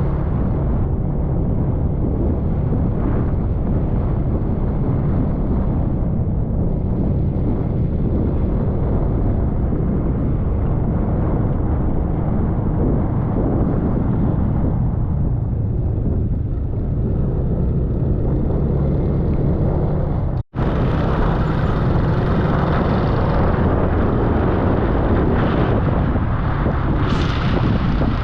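Motor scooter riding along, its small engine running steadily under a heavy rumble of wind on the camera microphone. About twenty seconds in, the sound cuts out for an instant and comes back with more hiss.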